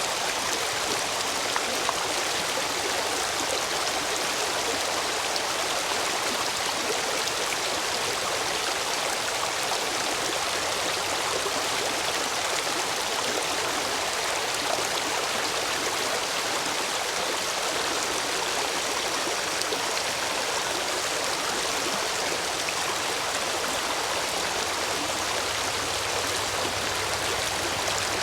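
Stream water rushing steadily over and between stepping stones, running high after heavy rain.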